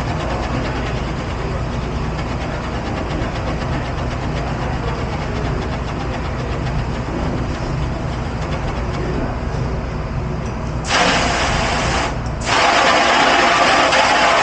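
Steady low hum of kitchen machinery; about eleven seconds in, a loud rush of running water starts, breaks off briefly and starts again.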